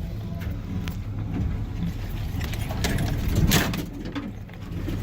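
Lifted pickup truck's engine running while driving off-road, with scattered knocks and a louder clatter about three and a half seconds in.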